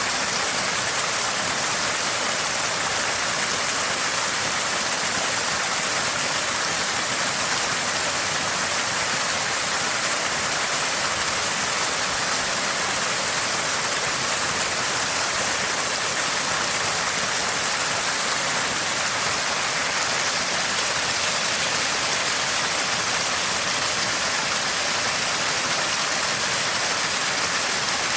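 Water from a small spring spouting and gurgling in a constant, steady splashing rush, with no breaks.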